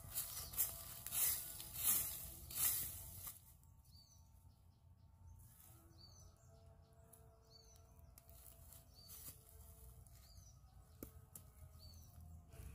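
A quick run of noisy scuffs or rustles for about the first three seconds, then quiet forest background with a bird repeating a short, high, down-swept call every second or two.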